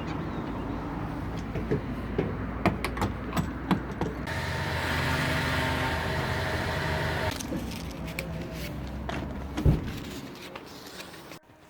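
Sounds around a car: scattered clicks and knocks, then a steady hiss with a faint hum for about three seconds from about four seconds in, fading toward the end.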